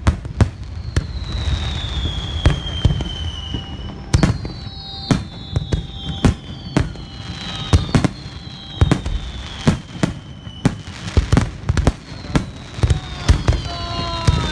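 Fireworks going off: a rapid string of sharp bangs and crackles, with several whistles that slowly fall in pitch.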